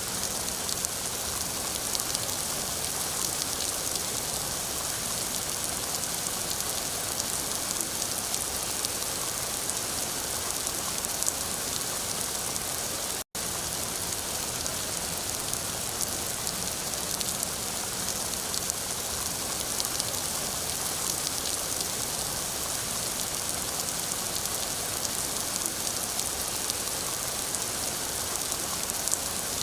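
Steady rain falling, a dense even patter of drops. The sound cuts out for an instant about 13 seconds in.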